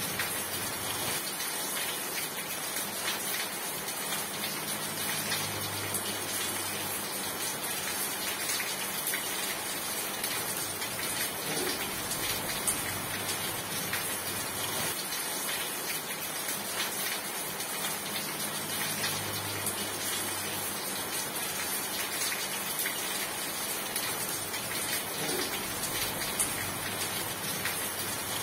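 Steady heavy rain falling, a dense even hiss of many drops.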